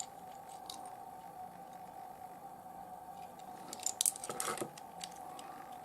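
Small clicks and scraping of rough opal pieces being handled, with a brief flurry about four seconds in, over a faint steady hum.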